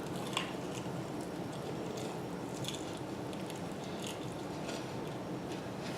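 Chewing food close to the microphone, with faint irregular mouth clicks over a steady background hiss.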